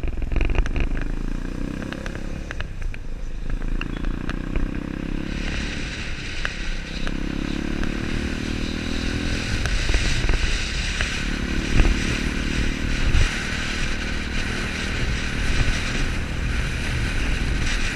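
Motorcycle engine running on the move, its note swelling and falling back about four times, over a steady low rumble and hiss.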